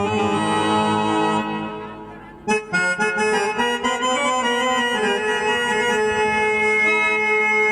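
Instrumental music of sustained, reed-like keyboard chords, typical of the harmonium used in devotional singing. The chords fade away about two seconds in and start again half a second later.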